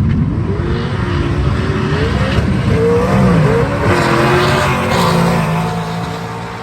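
Drag cars running down the strip, one of them a manual-shift 2003 Mustang Cobra: the engine notes climb in pitch and drop back at each gear change, and the sound fades toward the end as the cars pull away.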